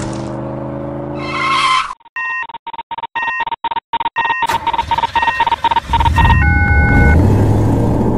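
Cartoon sound effects of a car. A steady engine hum gives way, about two seconds in, to a fast run of electronic clicks and beeps, roughly five a second and then quicker, as the car rides a conveyor ramp. A low rumble comes in near the end.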